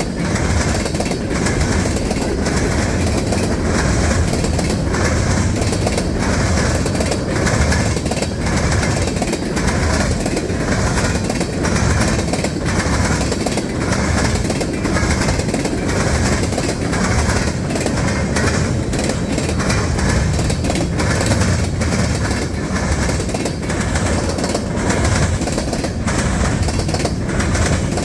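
Freight train rolling past, with a steady rumble and a regular clickety-clack of wheels over the rail joints.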